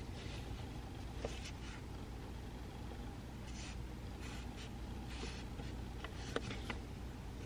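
Pencil writing on paper: short scratching strokes in scattered runs, with a few light clicks or taps, over a steady low room hum.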